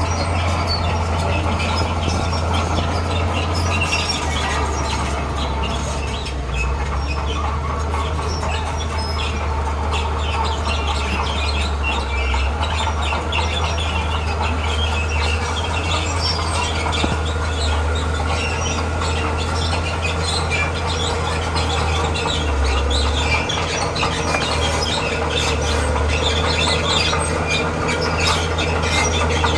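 Bulldozer diesel engine running steadily under load, with continuous rattling and clanking from its crawler tracks.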